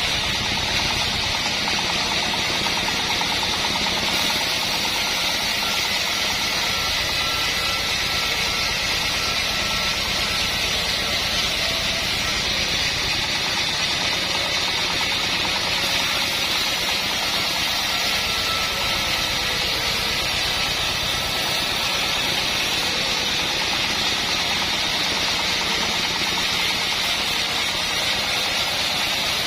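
Assembled band sawmill running steadily: the drive engine's low drone under a constant high-pitched noise from the machine, with no break or change.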